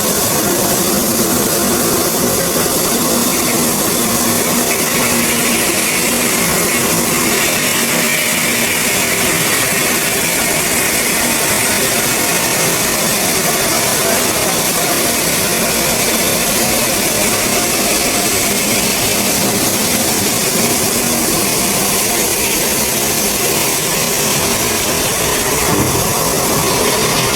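Stone-processing machinery running steadily: a loud, even hiss with a low hum under it, unbroken throughout.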